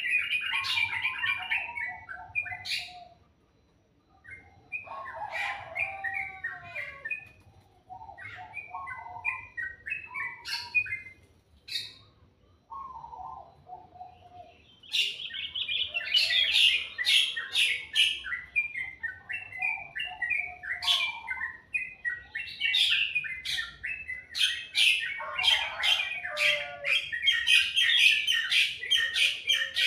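Songbird song: varied chirping and warbling phrases broken by short pauses, becoming busier and nearly continuous from about halfway, with sharp clicking notes mixed in.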